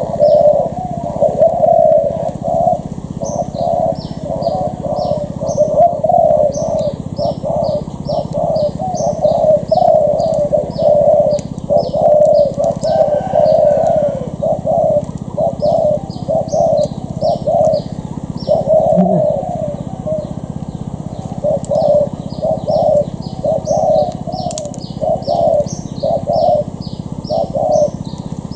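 Spotted doves cooing over and over, phrase after phrase, with short high chirps repeating about twice a second behind them.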